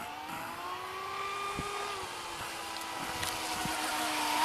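Electric RC racing boat running at speed: a steady motor and propeller whine that rises a little in pitch, then holds, growing louder toward the end.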